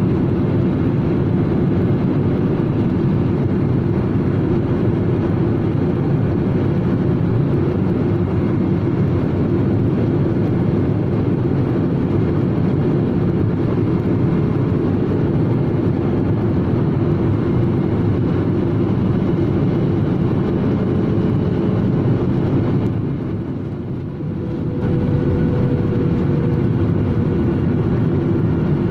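Steady drone of a passenger airliner's cabin in flight, engine and airflow noise with a low hum. It turns briefly softer and muffled about three-quarters of the way through.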